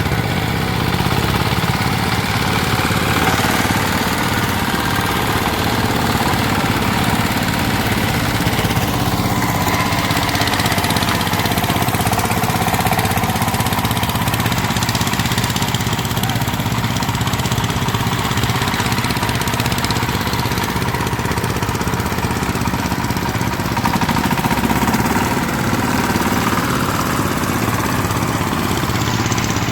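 VST Shakti 130 DI power tiller's single-cylinder diesel engine running steadily, a dense low chugging with no break.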